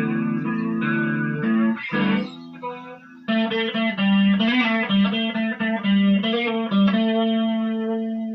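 Electric guitar played through a Marshall MG15GFX 15-watt combo practice amp with its built-in flanger effect on. Chords and notes, a short lull about two and a half seconds in, then a run of notes ending on a held note that fades out near the end.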